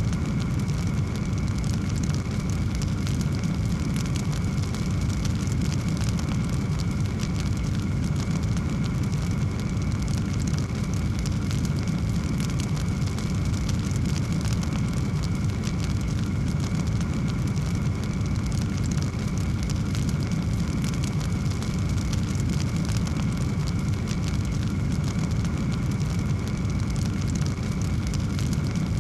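Wood fire burning in a fireplace: a steady low rumble of flame with many small crackles and pops.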